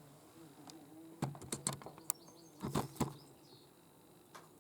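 A few faint, sharp clicks and knocks at uneven intervals, the loudest two close together about three seconds in, over a faint steady low hum.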